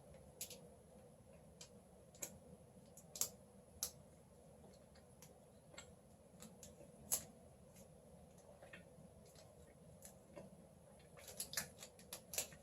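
Faint, irregular mouth clicks and smacks of someone chewing a chewy Big Turk bar, with a quick run of clicks near the end.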